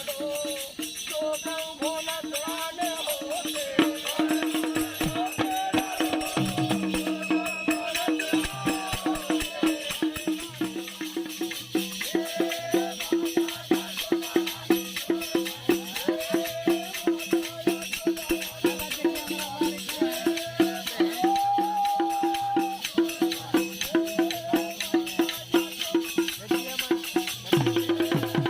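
Bundeli Rai folk dance music: a steady, quick rhythmic beat with shaken percussion and a wavering melody line over a sustained tone.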